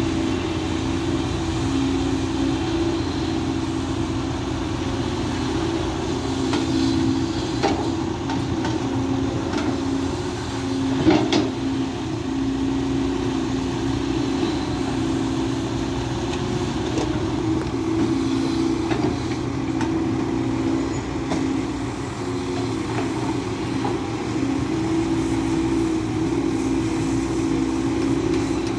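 SANY SY215C excavator's diesel engine and hydraulic pump running under load as it digs, the sound swelling and easing in stretches. There are two sharp knocks, about eight and eleven seconds in.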